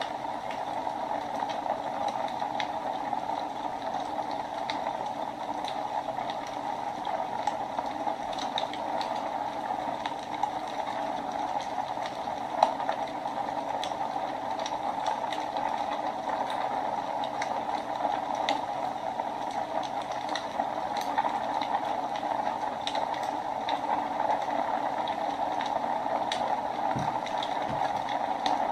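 Wood fire burning in a fireplace: a steady hiss with scattered small crackles, and one sharper pop about twelve seconds in.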